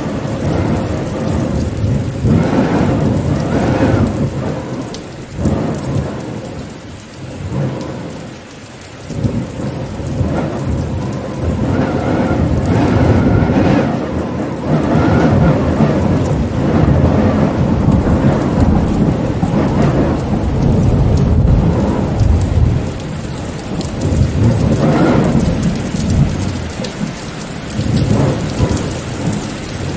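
Heavy rain with low rumbling swells that rise and fall, easing briefly about seven seconds in before building again.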